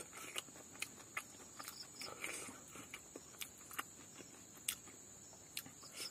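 Close-up eating sounds of a person chewing spicy cooked silkworm pupae with rice: irregular sharp mouth clicks and smacks, about two a second. A steady high insect drone, like crickets, runs beneath.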